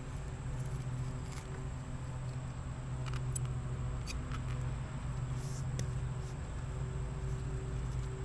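Boat engine running at a steady speed, a low even hum, with a few light clicks over it.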